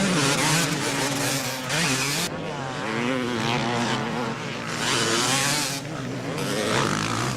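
Motocross motorcycle engines revving, their pitch wavering up and down, with several loud surges.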